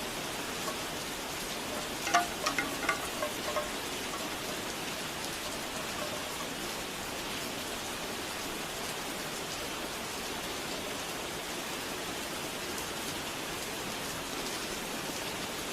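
Steady rain falling, with a bamboo wind chime clacking in a short flurry of hollow knocks about two seconds in.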